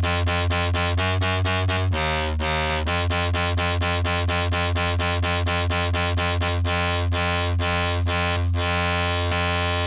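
Electronic dance track playing back: a heavy, steady sub bass under fast, even synth chord stabs, with a short change in the pattern about two seconds in.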